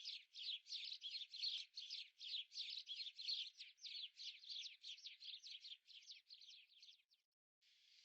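Faint, fast series of short, falling bird chirps, about three or four a second, that fade and stop near the end.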